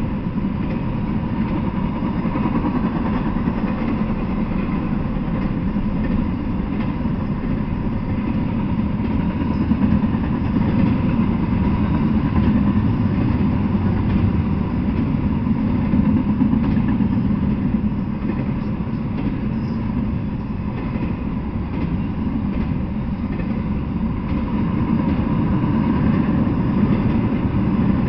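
Double-stack intermodal freight train passing: a steady, loud rumble of the container-laden well cars' wheels rolling on the rails.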